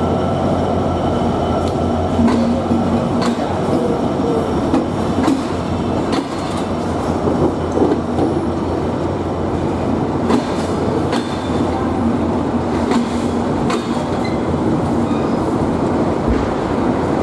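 Chilahati Express passenger train running on the rails: a steady rumble and clatter of wheels on track, with scattered sharp clicks throughout.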